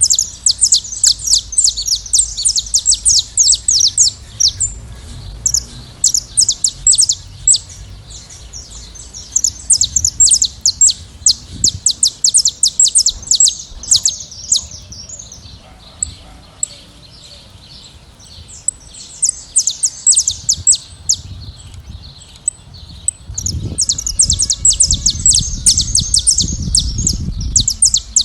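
A flock of saffron finches chirping and singing: dense runs of rapid, high chirps that overlap, with two short lulls, and a low rumble under them in the last few seconds.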